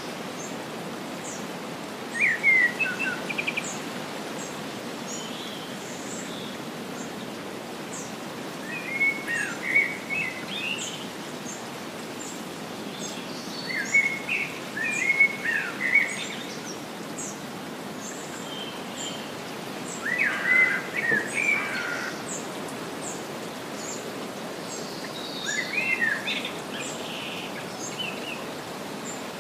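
A songbird sings a short, bright chirping phrase about every five to six seconds, five phrases in all, over a steady hiss, with faint high chirps from other birds throughout.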